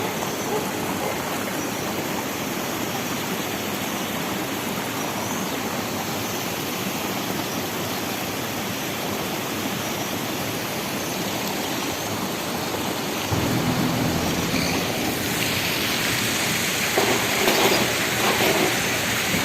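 Rushing water of a waterfall, a steady even rush that gets louder and deeper about thirteen seconds in.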